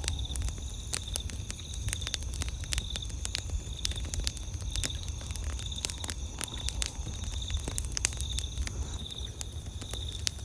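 Campfire crackling, with many sharp snaps and pops over a low steady rumble. An insect chirps in the background in short, even pulses about one and a half times a second.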